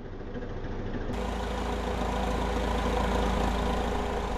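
Truck engine idling with a steady low rumble, which jumps louder about a second in.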